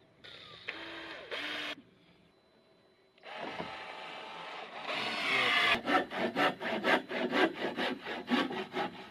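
A hand tool worked back and forth on wood, with fast, even rubbing strokes about three to four a second in the second half, after two short scraping sounds near the start.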